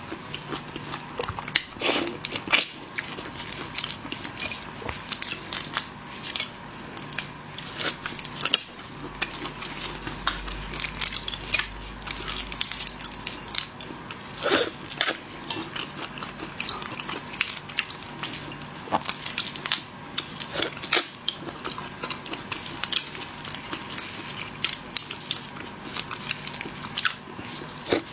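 A person biting and chewing seafood close to the microphone, with many irregular sharp crunches and cracks; a few louder cracks come about 2 seconds in and near the middle.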